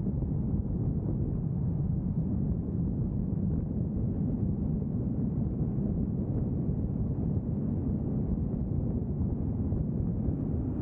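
Steady low rumble of a vehicle driving, road and engine noise with no distinct events.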